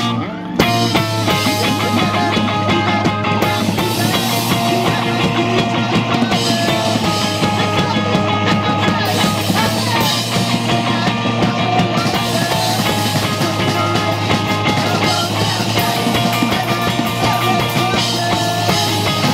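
A rock band playing live, with electric guitar and drum kit, loud and steady. There is a short drop just after the start before the full band comes back in.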